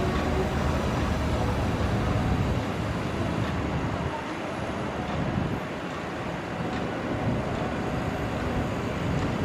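Heavy diesel machinery running: a deep engine rumble, strongest for the first two and a half seconds, then easing to a lower level.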